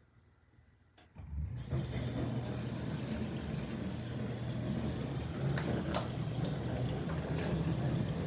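Dishwasher with a newly fitted circulation pump starting about a second in, then running steadily with a low hum, with a few light knocks later on.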